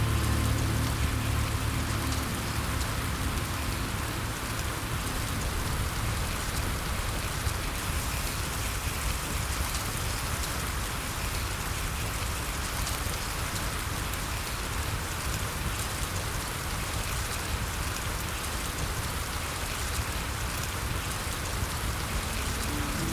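Steady rain falling, an even hiss of drops. Soft music fades out just after the start and comes back in near the end.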